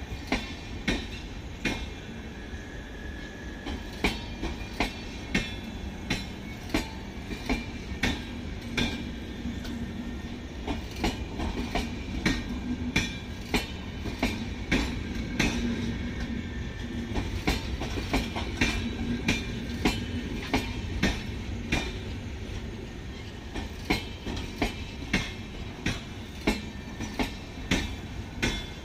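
Duronto Express LHB passenger coaches passing at speed, their wheels clicking over rail joints in a steady rhythm of about one to two clicks a second over a continuous rumble.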